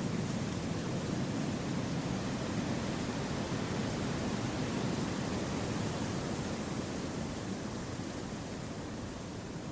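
Wind blowing through forest trees: an even, steady noise that softens slightly over the last few seconds.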